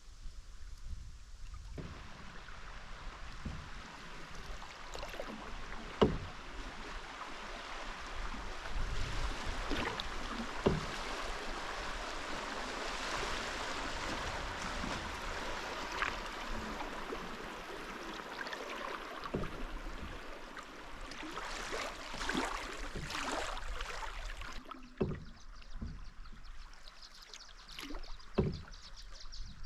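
Canoe being paddled: a steady wash of water splashing and rushing, with a few sharp knocks scattered through it.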